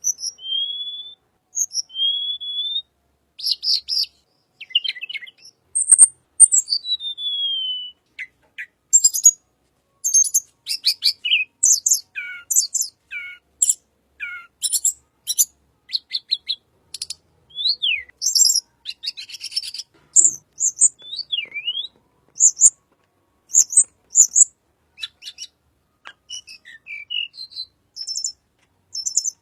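Tledekan songbird singing a long, varied song: clear whistled notes that slide up or down, mixed with quick buzzy, chattering phrases, in a near-continuous stream.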